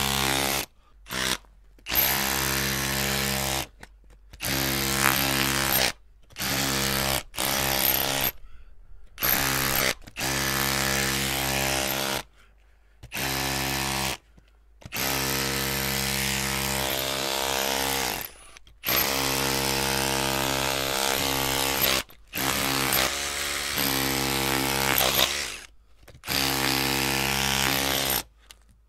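Electric power drill running at a steady speed in repeated bursts of one to three seconds, its motor whine cutting off and starting again a dozen or so times as the trigger is released and pulled.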